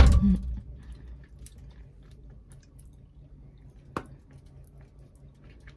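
Close-up mouth sounds of a person chewing fish and rice, soft and wet, after a low thump right at the start. A sharp click of a metal spoon about four seconds in.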